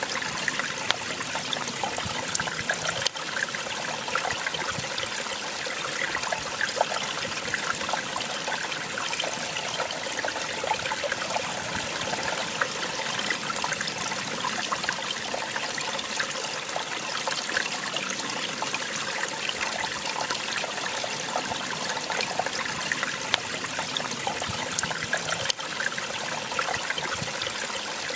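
Small waterfall: water splashing and trickling in a steady rush, dense with little splashes, with a couple of sharper splashes standing out.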